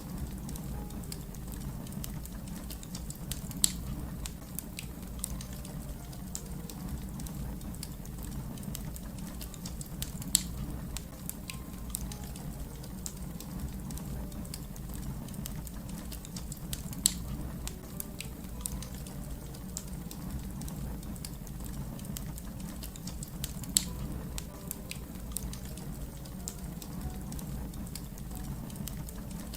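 Fire crackling: a steady low rumble of flames under a constant scatter of small clicks, with four louder pops spread evenly through it.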